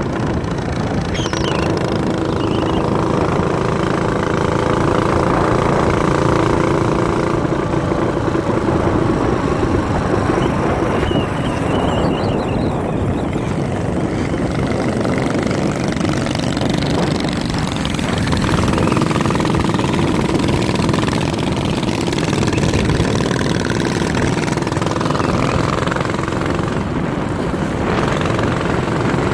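Minibike engine running continuously, its pitch shifting up and down as the throttle changes.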